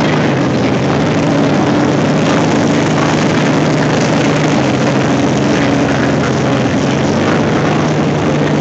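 Packard Bentley's 42-litre Packard V12 aero engine running steadily at low revs, a deep, even note with no rise or fall.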